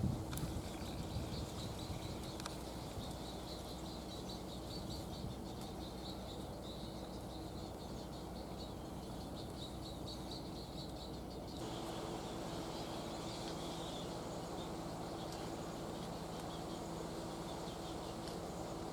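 Birds in a heron nesting colony calling in rapid series of short, high-pitched ticks, thinning out in the second half, over a low steady background hum. A brief low thump right at the start.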